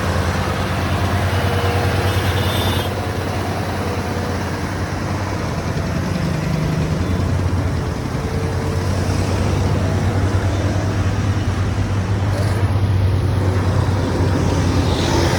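Heavy diesel engine running steadily with a deep, continuous rumble, its note rising and easing a little.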